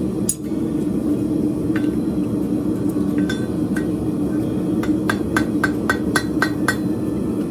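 Hand hammer striking hot horseshoe steel on an anvil, each blow ringing: a few scattered strikes, then a quick run of about four blows a second in the last two seconds or so. A steady low drone runs underneath.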